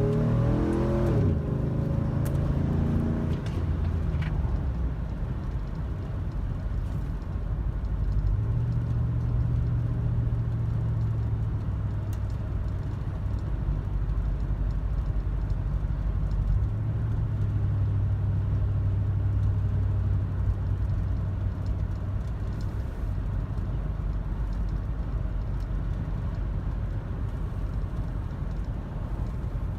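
Chevy Tahoe's 5.3 L V8 running through a Borla Pro XS muffler, which the owner considers broken in after six months. A rev falls away in the first second or so, then the engine settles into a steady low drone whose pitch steps up about eight seconds in and shifts again about seventeen seconds in.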